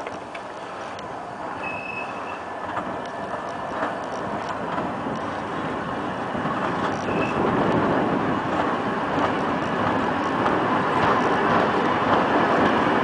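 Passenger train pulling out of a station, heard from on board: its running noise rises steadily as it gathers speed, with light clicks and two brief high squeaks, about two seconds in and again about seven seconds in.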